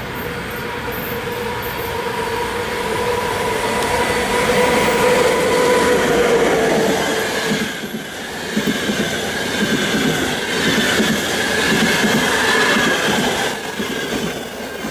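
Electric passenger train running past on the tracks. For the first half a steady ringing tone sits over the rumble. From about eight seconds in, the coaches roll by with wheels clattering rhythmically over the rail joints and a faint high squeal.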